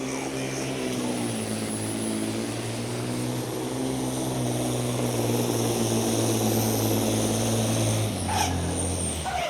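Supersport pulling truck's diesel engine running hard at steady high revs under full load, dragging the pulling sled. About eight seconds in the revs drop away.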